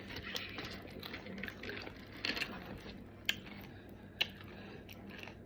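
Faint crunching of someone chewing corn chips, with a few sharp clicks scattered through it.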